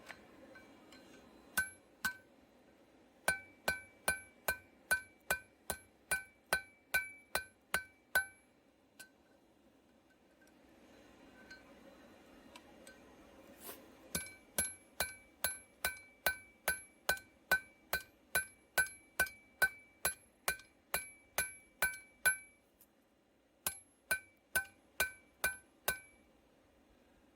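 Hammer blows on an anvil-shaped object, each strike ringing, in runs of steady blows about three a second with pauses between: forging a tong blank from hot steel.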